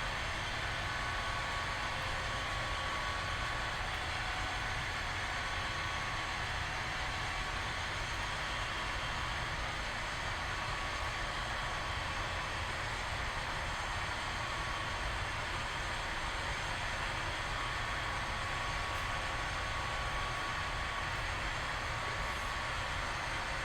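Freight train cars rolling past: a steady, even rolling noise, with a faint high tone that comes and goes.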